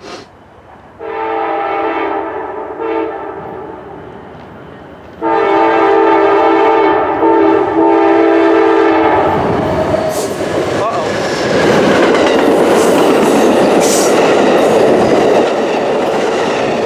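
Amtrak passenger train's locomotive horn sounding a chord of several notes, a short blast and then a longer one. The train then passes close by, its wheels clattering over the rail joints.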